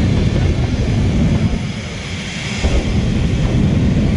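Loud engine noise of cars racing down a drag strip, a dense low rumble that eases off briefly about halfway through and then comes back.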